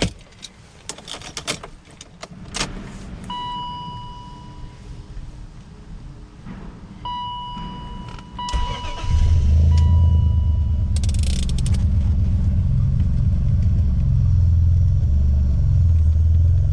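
Clicks and rattles, then a car's warning chime sounding several long beeps. About nine seconds in, a Honda S2000's four-cylinder engine starts and settles into a loud, steady, deep idle; its gasket has just been fixed, and the owner says it sounds like a muscle car.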